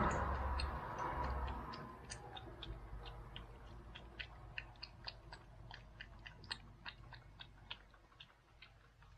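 Cat chewing food, a run of small irregular crunching clicks that thin out near the end. A louder hissing noise fades away over the first two seconds.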